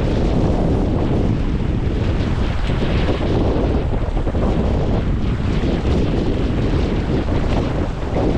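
Wind buffeting the microphone aboard a sailing boat in a moderate breeze, a steady heavy rumble, with water rushing along the hull.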